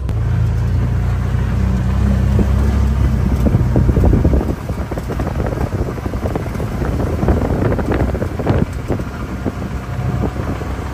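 An engine running steadily with a low hum that drops away about four and a half seconds in, followed by rough wind buffeting and rustling on the microphone.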